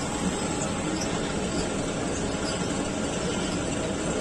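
A Pakistan Railways railcar running slowly, heard from on board as a steady rumble of its engine and wheels on the track.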